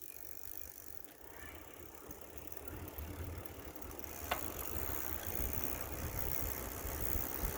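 Bicycle riding along a road: low rumble of tyres and wind, growing gradually louder, with a single sharp click about four seconds in.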